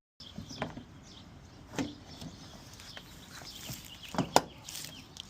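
A few scattered sharp plastic clicks and knocks from a marker light being handled and fitted into a new truck fender flare, the loudest a double knock about four seconds in.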